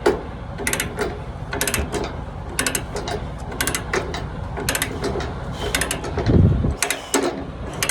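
Ratchet chain binder being cranked to tighten a load chain, its pawl clicking in a short burst on each stroke of the handle, about once a second. A brief low rumble comes about six seconds in.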